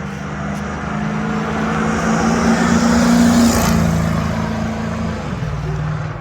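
A 1986 Lincoln Town Car's 5.0 V8 accelerating hard. The automatic transmission shifts up twice, so the engine note steps down in pitch, with rising wind and road noise that is loudest midway.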